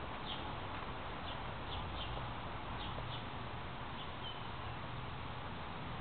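Outdoor yard ambience: a steady low hiss and rumble with faint, short bird chirps scattered through it, including a brief whistled note about four seconds in.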